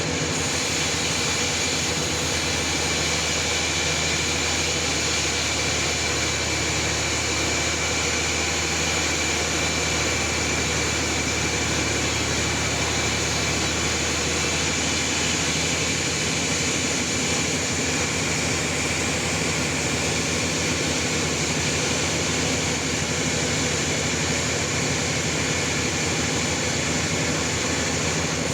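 Sawmill machinery running: a steady machine drone with a thin, high whine held over it.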